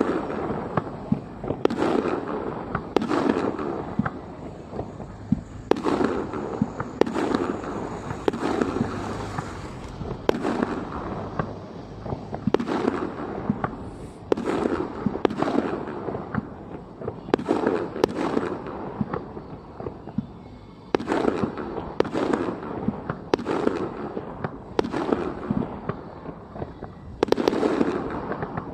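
Aerial fireworks shells bursting, a boom every second or two in an irregular series, each trailing off in a rumbling decay, with fine crackling between the bursts.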